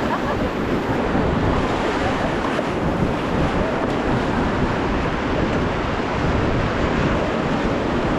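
Ganges river water rushing steadily, with wind buffeting the microphone.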